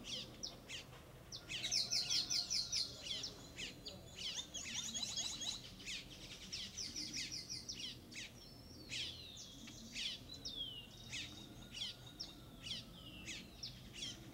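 Several small birds singing and chirping together: rapid high trills and short down-slurred notes, with the trills loudest in the first six seconds.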